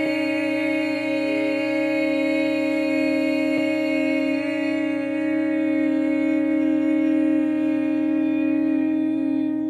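Human voices holding one long, steady hummed note without a break, practising the healing sound for the kidneys from traditional Chinese healing-sound breathwork.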